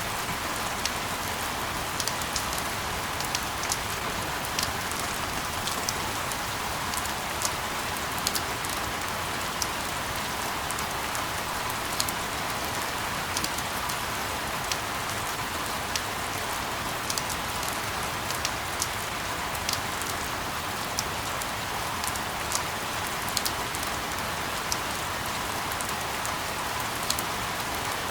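Steady rain falling as a constant hiss, with scattered sharp ticks of single drops striking a surface.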